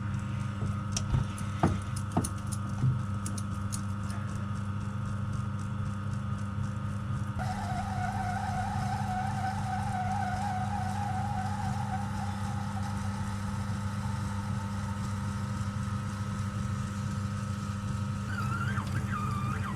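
Lathe running steadily while drilling and boring out a nylon block, with a few clicks in the first three seconds. About seven seconds in, a high wavering squeal joins as the cutter bites into the nylon.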